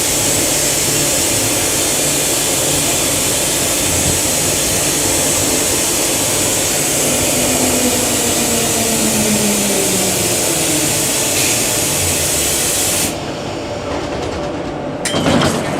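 Queensland Rail EMU electric train running, a steady rumble and hiss with a whine that falls in pitch midway. About 13 s in the hiss suddenly drops away, and a sudden louder sound follows near the end.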